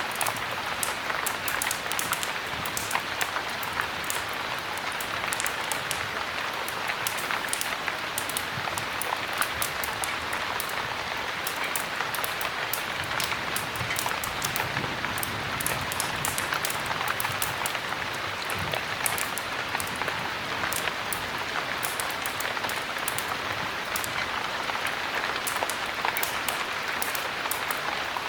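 Steady heavy rain, an even hiss with many small sharp ticks scattered all through it.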